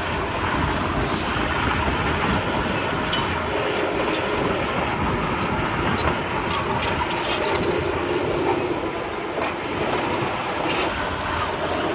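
Komatsu D31P crawler bulldozer working, its diesel engine running steadily under scattered short metallic clanks and squeaks from the steel tracks.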